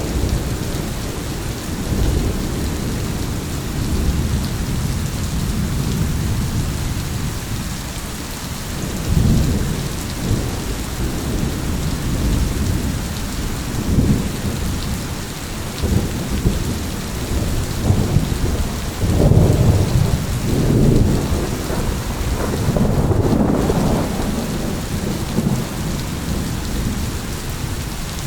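Steady heavy rain hissing, with rolling thunder rumbling in low swells that rise and fall, swelling loudest about two-thirds of the way through.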